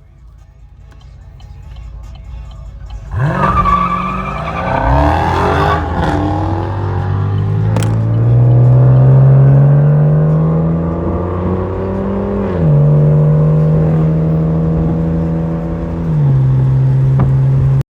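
Car engine revving hard: it builds, then gets loud about three seconds in, climbs in pitch and is held high, dropping and rising again in steps, and cuts off suddenly at the end.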